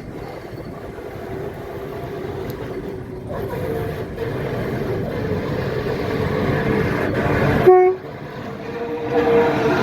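Alco RS8 diesel locomotive's engine running and getting louder as it works, with a short horn toot near the end that is the loudest sound, after which the noise drops off suddenly.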